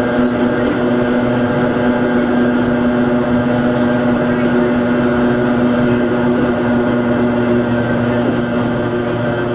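Hakone Tozan Railway Moha 1 No. 106's nose-suspended SE121-A traction motors and gearing whining at a steady pitch over the rumble of the NA7 bogies, as heard from inside the car while it runs at constant speed.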